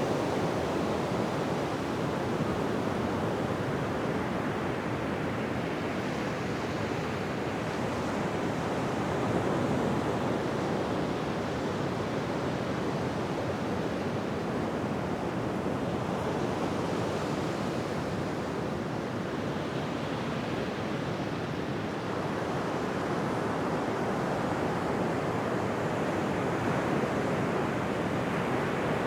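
Ocean surf on a beach: a continuous hiss of breaking and washing waves that swells gently and eases back.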